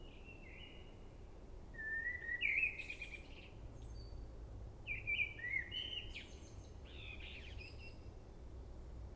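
A songbird singing short phrases of quick whistled notes, loudest about two seconds in and again about five seconds in, over a steady low rumble.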